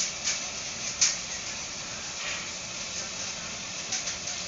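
Biomass sawdust burner firing hard: a steady hiss of flame with scattered sharp crackles, the loudest about a second in.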